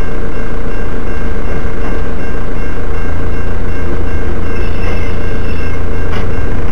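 Freight train of hopper wagons rolling past close by: a loud, steady rumble of wheels on rail, with a thin high squeal from the wheels coming in about two-thirds of the way through.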